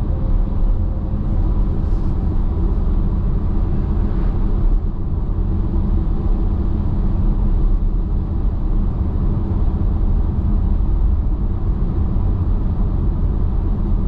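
Steady road and tyre noise with engine hum from inside a car cabin at highway speed, a low, even rumble.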